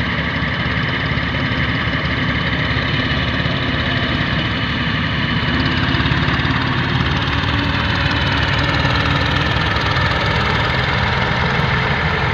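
Ford tractor's diesel engine running steadily, loud and unbroken, a little louder from about six seconds in.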